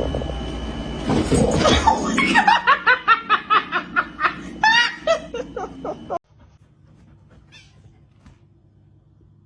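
A person laughing in a quick run of bursts that cuts off suddenly about six seconds in, after a noisy stretch at the start.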